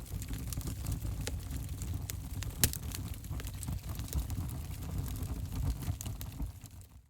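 Wood fire in an open fireplace crackling: a steady low rumble of flames with scattered sharp pops, the loudest about two and a half seconds in. The sound dies away almost to nothing near the end.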